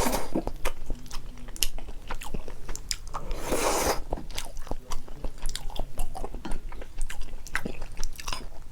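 Close-miked mouth sounds of a person eating a Buldak carbonara noodle dish: chewing with many small wet clicks, and one longer noisy rush a little past three seconds in.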